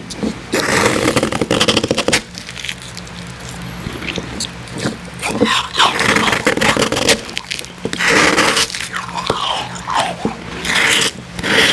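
Close-miked crunching and chewing of icy Icee slush, in several bouts of bites.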